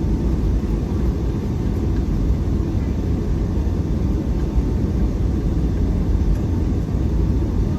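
Steady low rumble of a Boeing 757-300 heard from inside the cabin while it taxis after landing, its engines at idle.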